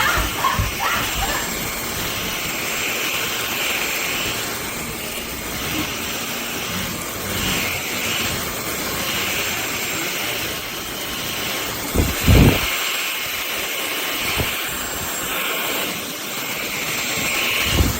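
MBYULO cordless stick vacuum running, a steady rushing whine whose upper pitch swells and fades every second or two as it is pushed over the floor. A couple of short knocks come about twelve seconds in.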